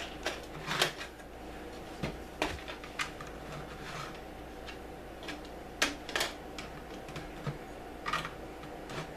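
Plastic LEGO pieces clicking and knocking as they are handled and pressed into place: about a dozen irregular sharp clicks over a faint steady hum.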